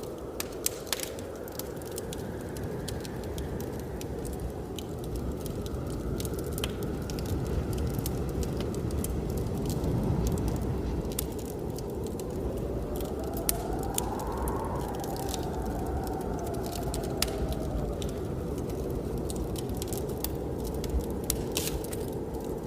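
Wood fire crackling with scattered sharp pops over a steady blizzard wind that swells and fades. About halfway through, a whistle in the wind rises and falls.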